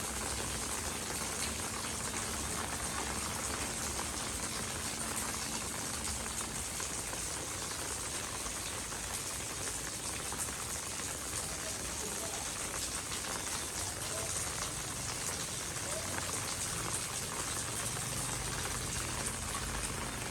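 Steady rain falling on street pavement: a dense, even patter of drops with no let-up.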